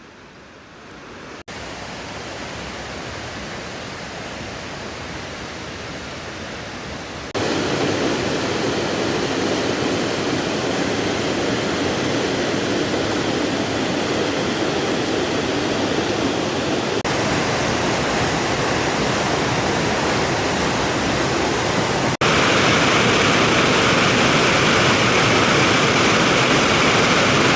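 Steady rush of falling and flowing water from a forest waterfall and its stream, jumping abruptly louder three times: about a second and a half in, about seven seconds in, and about twenty-two seconds in.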